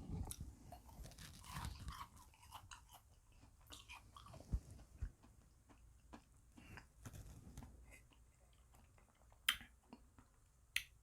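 Close-miked chewing and crunching of small frozen ice-cream beads, soft and irregular, with a few sharp clicks about halfway through and near the end.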